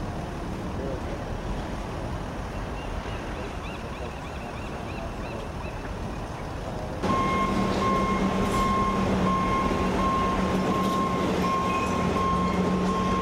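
Outdoor wind and distant rumble, then about halfway through a sudden cut to a heavy vehicle's engine running with its reversing alarm beeping steadily, a little over one beep a second.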